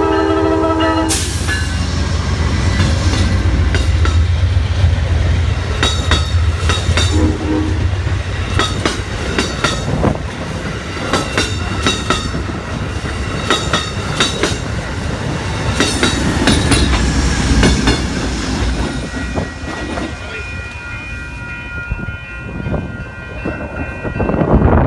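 Amtrak Downeaster train led by a GE P42DC Genesis diesel locomotive passing a grade crossing. Its horn sounds for about the first second, then the diesel's low rumble and the passenger cars' wheels clicking over rail joints go by. In the last few seconds, after the train has cleared, the crossing bell rings steadily.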